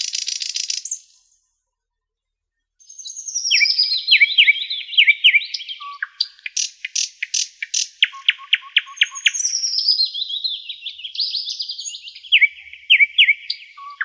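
Songbirds singing: a buzzy trill at the start, then repeated songs of quick notes cascading downward in pitch, mixed with runs of short, evenly spaced chirps. The sound cuts out completely for about a second and a half soon after the start.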